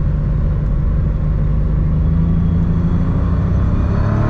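BMW N54 turbocharged straight-six car driving, a steady low drone; from about two seconds in its pitch climbs as it accelerates.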